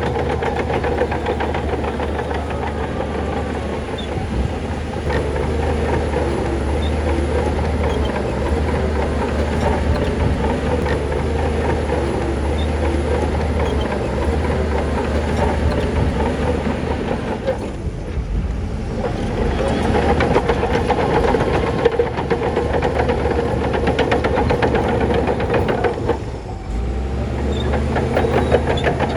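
Heavy diesel bulldozer running steadily with a constant metallic rattle over a low drone; the sound briefly drops twice, about two-thirds of the way through and again near the end.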